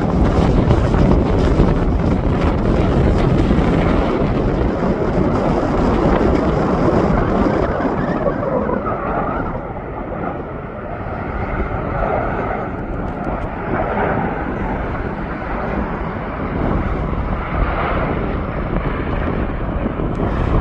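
Jet engines of an Airbus A350-900, Rolls-Royce Trent XWB turbofans, running loud with a heavy low rumble. The high hiss fades out about eight seconds in, after which a fainter engine whine carries on.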